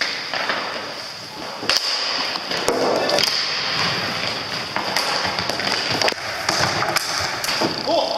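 Hockey play in a rink: sharp stick clacks and knocks at irregular intervals, with scattered distant shouts over a steady high background noise.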